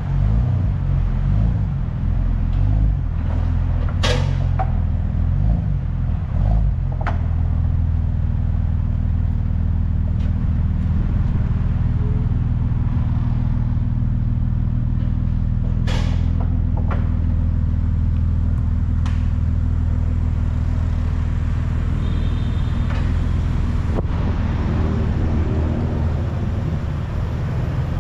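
BMW 328i inline-six idling through an exhaust with the rear muffler removed: a steady, low engine drone, somewhat uneven for the first several seconds, then settling. A few sharp clicks are heard over it.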